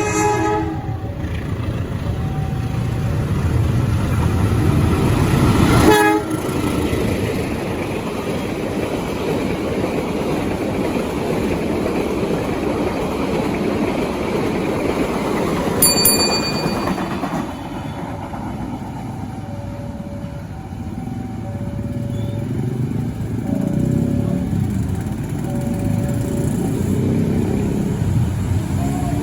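Passenger express train running over a level crossing: the rumble of locomotive and carriages on the rails, with a horn at the start and a brief high squeal about sixteen seconds in. A level-crossing warning signal beeps over and over, about once a second, plainest in the last third.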